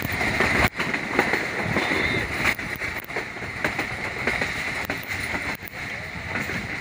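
Passenger train coach running at speed, heard from alongside the coach: a steady rushing rumble with sharp, irregular clacks from the wheels on the rails.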